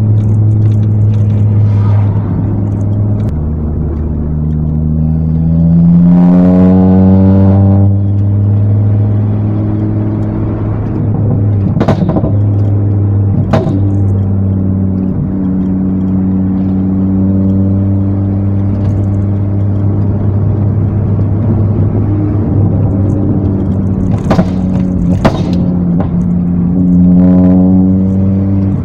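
Ford Focus ST225 Mk2's turbocharged 2.5-litre five-cylinder engine, tuned to over 300 bhp, heard from inside the cabin while driving. The engine note drops with a gear change a few seconds in, then rises and grows louder as the car accelerates hard. It settles into a steady cruise with a few short sharp cracks, and rises again under acceleration near the end.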